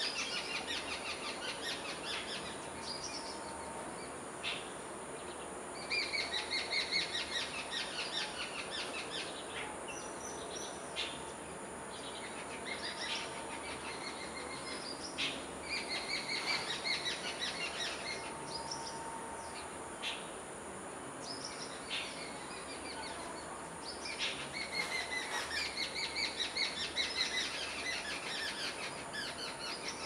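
Songbird calling in repeated rapid chattering phrases a few seconds long, with shorter calls between them, over a steady high hiss.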